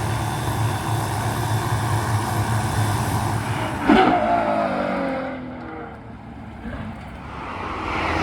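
A car engine running, then a loud burst about four seconds in as it accelerates past, its pitch falling away as it recedes.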